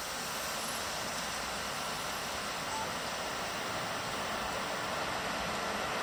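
Steady hiss of falling rain with a low background rumble that grows slowly louder.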